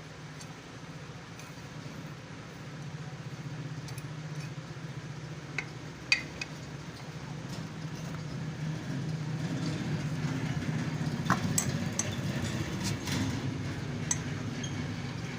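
Occasional sharp metallic clinks of hand tools and bolts on motorcycle parts, over a steady low engine hum that grows louder in the second half.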